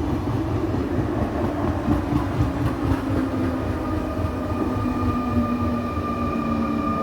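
RER C electric commuter train running with a steady rumble and an electric whine that slowly drops in pitch, with a higher whine joining about halfway through.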